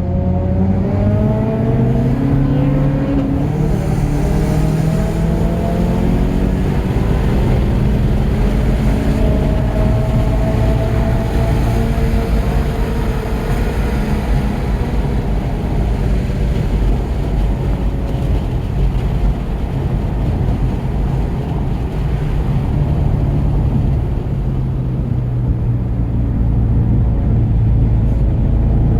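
Tuned 2017 Volkswagen GTI's turbocharged 2.0-litre four-cylinder pulling hard on track, its pitch climbing in the first few seconds and again midway, then running lower and steadier toward the end, with road and wind noise underneath.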